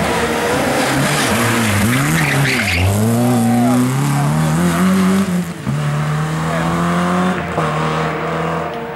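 Rally car engine blipping up and down on the throttle, with a brief tyre squeal about two and a half seconds in, then accelerating hard with the revs climbing, changing up a gear about five and a half seconds in and again near the end.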